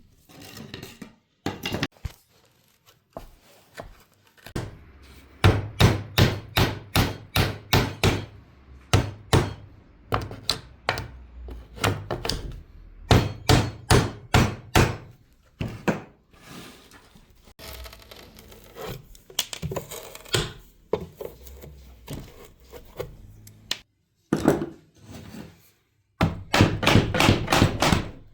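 Repeated hammering on wood: runs of sharp knocks about two to three a second, broken by short pauses, with a stretch of scraping in the middle.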